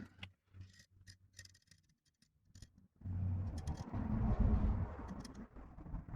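Light clicks and taps of small parts being handled, then about three seconds of louder rustling, scraping handling noise.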